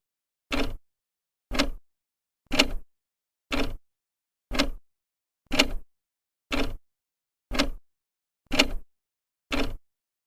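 Old clock's second hand ticking once a second, each tick a sharp, short click with silence between ticks.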